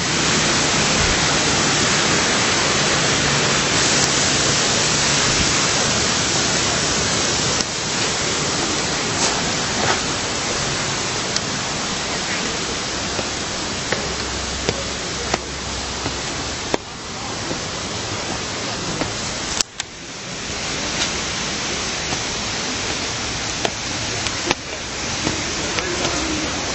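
Steady rush of falling water from a waterfall, a dense even hiss, with a brief drop in level about twenty seconds in.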